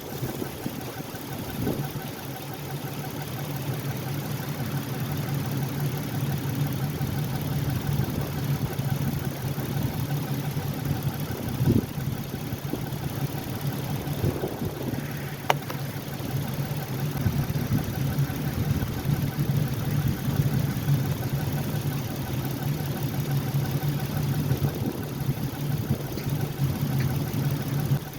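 Ford Edge engine idling steadily, with a single sharp click about halfway through.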